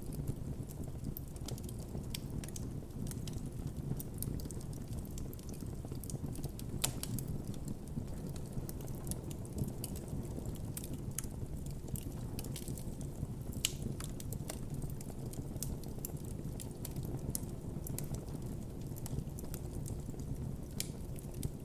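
Wood campfire burning with a steady low rush of flames and frequent small crackles and pops, a few sharper pops among them.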